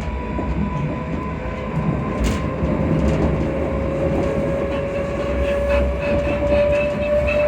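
Class 334 Juniper electric multiple unit running, heard from on board. A low rumble of wheels on track carries a thin whine that slowly rises in pitch from about two seconds in, with scattered light clicks.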